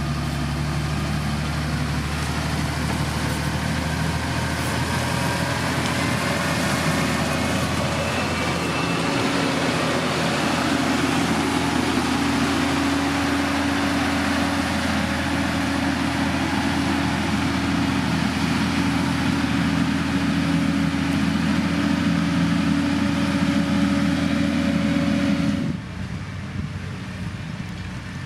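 Diesel engine of heavy road-building machinery running steadily, with a slight change in its note partway through. The sound drops away abruptly a couple of seconds before the end.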